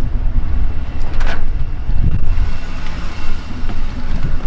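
Motor vehicle engine running with a steady low rumble, and a brief clank about a second in.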